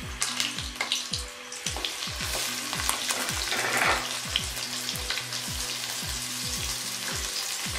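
Keema-stuffed bitter gourds (karela) sizzling and crackling as they fry in hot oil in a kadai.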